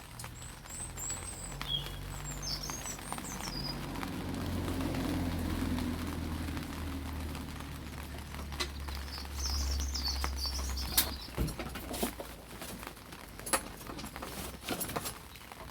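Birds chirping in short wavy phrases twice, over a steady low rumble, with scattered light metallic clicks and taps.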